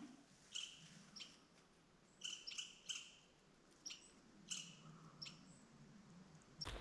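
Faint short chirps, about eight of them at uneven intervals, from a small bird. Near the end the sound changes abruptly to a wider rustling noise.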